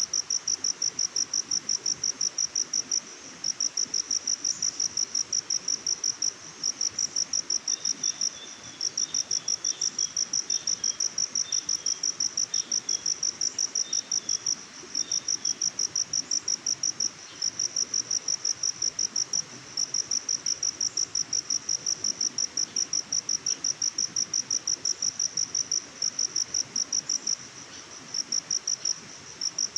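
Insect chirping: a high, rapid, evenly pulsed trill in long runs, broken by short pauses every few seconds. A few fainter, short chirps are heard in the middle.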